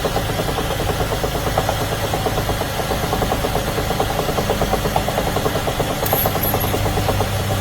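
Car engine running with a fast, even ticking knock over its steady hum, the strange noise being diagnosed.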